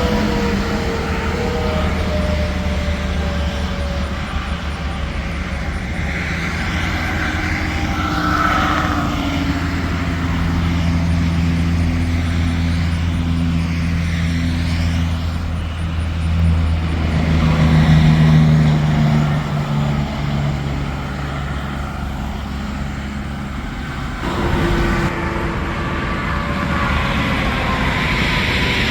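Highway traffic passing: heavy trucks' diesel engines and tyre noise, with engine tones falling in pitch as vehicles go by, near the start and again near the end.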